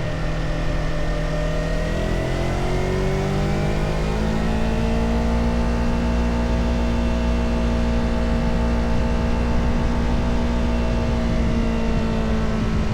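Motorcycle engine running on the road; its pitch dips over the first two seconds, then climbs and holds steady from about four seconds in.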